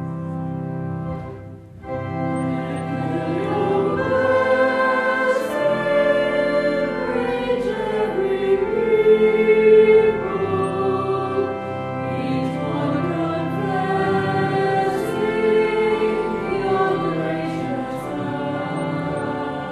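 A choir singing slow, sustained phrases of church music, with a short break a little under two seconds in before the singing resumes.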